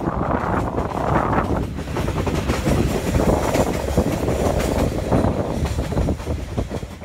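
Moving passenger train heard from an open carriage window: a steady low rumble of the running carriage, with the quick irregular clatter of wheels on the track.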